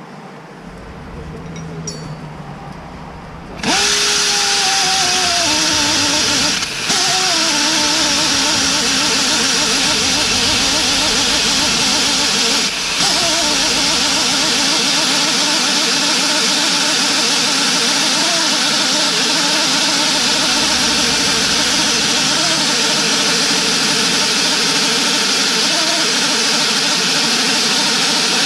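A loud engine-driven machine starts suddenly about four seconds in and runs steadily for the rest of the time. Its engine note dips and recovers as it takes load, under a strong hiss.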